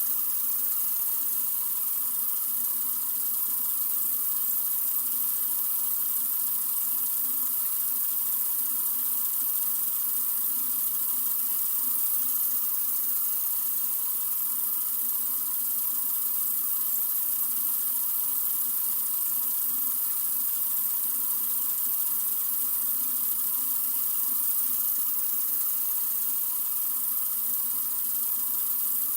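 Water running steadily from a sink faucet: an even, unbroken hiss with no change in level.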